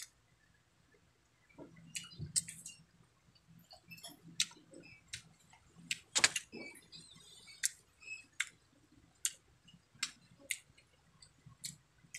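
Close-up chewing of a mouthful of food, with a run of sharp wet mouth clicks and lip smacks about one or two a second. The loudest smack comes about six seconds in.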